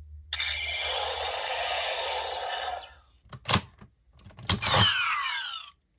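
Electronic sound effects from a CSM Double Driver toy belt playing back a Dopant Gaia Memory: a loud buzzing effect for about two and a half seconds, a sharp click about a second later, then a clattering burst with falling electronic sweeps near the end.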